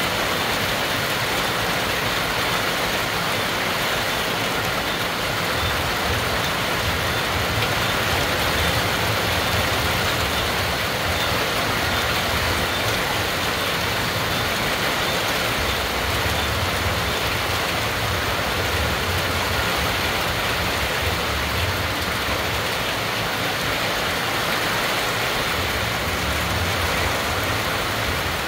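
Heavy rain falling steadily on trees and roofs, an even hiss, with a low rumble underneath that comes and goes.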